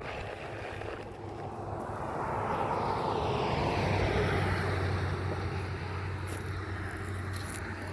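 A vehicle passing by on the road: engine and tyre noise swells gradually to a peak about four seconds in, then slowly fades.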